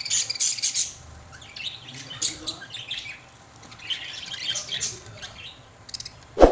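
Pet lovebirds chattering in short, shrill squawks and chirps, in three bursts with short pauses between. A sharp thump right at the end is the loudest moment.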